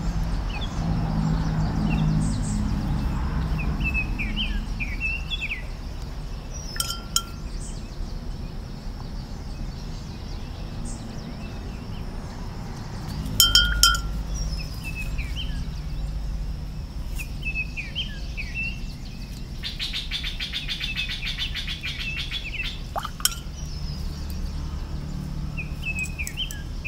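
Small birds chirping now and then over a steady low outdoor rumble, with a few sharp clicks, the loudest about halfway through, and a fast rattling call for about two seconds after the middle.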